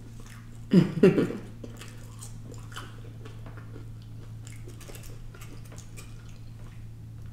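Close-up chewing of a mouthful of fast food, with soft wet mouth clicks throughout. A brief 'mm' of the voice comes about a second in, over a steady low hum.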